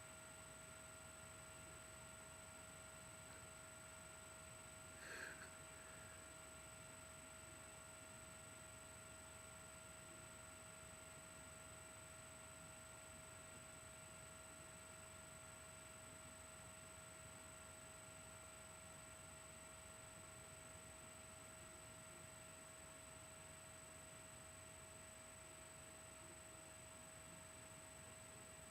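Near silence: a steady electrical hum with a faint high whine, and one brief faint chirp from a cockatiel about five seconds in.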